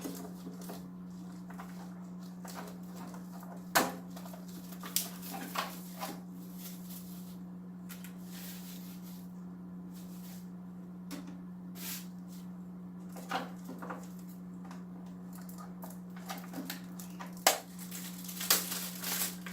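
Scattered sharp clicks and knocks from snipping out the shipping straps and handling the canister filter's plastic parts, over a steady low hum.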